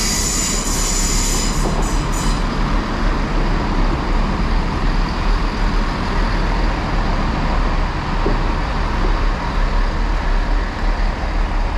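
Class 165 diesel multiple unit pulling into the platform: a high squeal dies away about two seconds in, then a steady low rumble of its diesel engines as it runs in.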